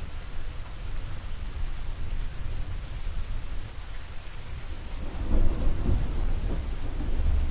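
Steady rainfall with a deep rumble of thunder rolling in about five seconds in and carrying on to the end.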